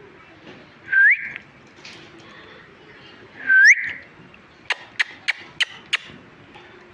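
Pet parrot giving two short, loud, rising whistles, about a second and three and a half seconds in, followed by five sharp clicks in quick succession.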